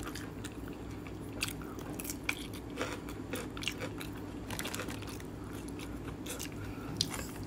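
A person chewing a crusty bánh mì baguette sandwich up close, with irregular crisp crunches of the crust, over a steady low hum.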